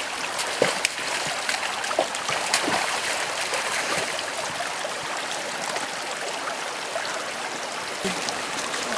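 A stream rushing steadily, with a few light clicks over it.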